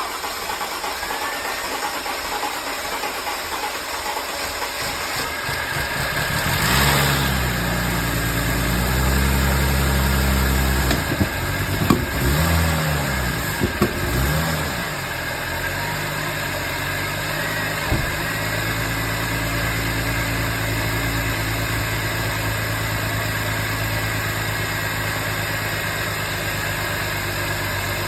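Freshly rebuilt Mercedes-Benz M272 V6 engine running on its first start. It is revved up and down a few times around the middle, then settles into a steady idle.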